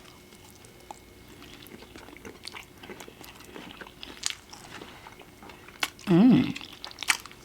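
Close-miked chewing of a sushi roll with cucumber and shrimp: soft wet mouth clicks and light crunches. About six seconds in there is a short hummed "mm".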